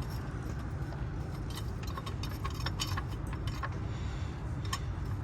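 Metal clicks and clinks of a hand tool tightening the clamp on a newly fitted car battery, a few clicks a second, over a steady low rumble.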